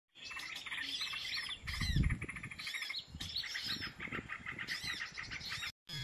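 Small birds chirping and twittering together in quick trills and short rising and falling notes. A brief low rumble comes about two seconds in, and the sound cuts out just before the end.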